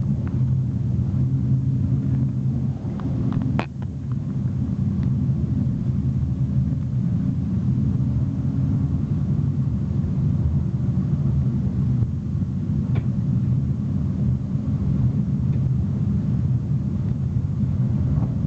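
Passenger train running along the track, heard from inside the carriage as a steady low rumble of wheels on rails, with a brief sharp click about three and a half seconds in and a fainter one later.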